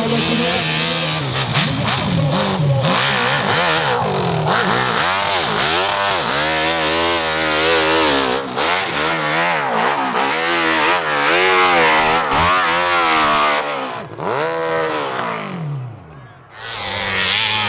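Competition hill-climb dirt bike engine revving hard, its pitch rising and falling again and again, about once a second, as the throttle is worked up the slope. The sound drops away briefly near the end, then comes back.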